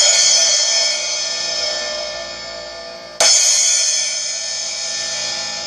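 10-inch Kasza R Series rock splash cymbal struck with a drumstick, hit at the start and again about three seconds in, each crash ringing out bright and fading slowly. Raw sound picked up by a tablet's built-in microphone.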